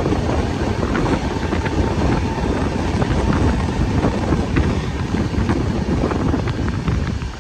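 Passenger train running, with heavy wind buffeting the microphone and irregular rattles and clicks.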